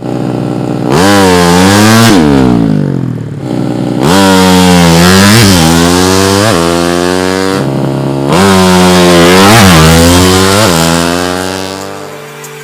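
Small-capacity drag-racing motorcycle engine revving hard. It runs in three long climbs, each rising and falling in pitch, and fades away near the end.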